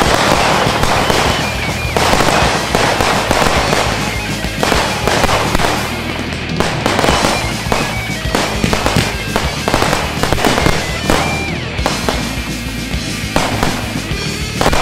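Consumer fireworks going off in quick succession, many overlapping bangs and crackles with hardly a gap.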